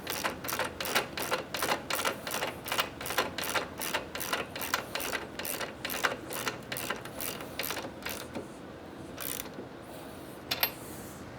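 Socket ratchet clicking quickly and evenly, about five clicks a second, as it runs down the 24 mm swingarm pivot shaft nut before final torquing. After about eight seconds the clicking stops, leaving a few single clicks.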